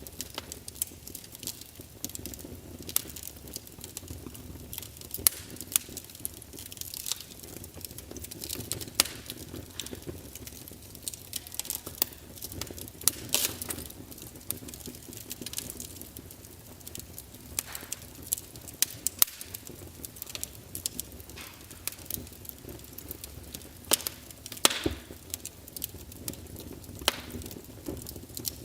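Wood fire crackling: irregular sharp pops and snaps over a low steady rumble, with a few louder pops scattered through.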